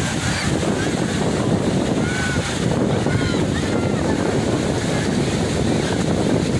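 Wind buffeting the microphone over steady surf on the shore, with faint distant voices.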